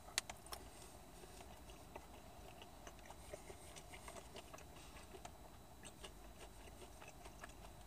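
Faint chewing of chicken nuggets: soft, irregular mouth clicks and smacks, with one sharper click just after the start.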